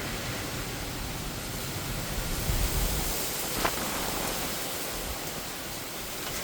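Heavy rain and wind of a severe thunderstorm, a steady rushing hiss that swells briefly with a low rumble a little over two seconds in, with one sharp tap near the middle.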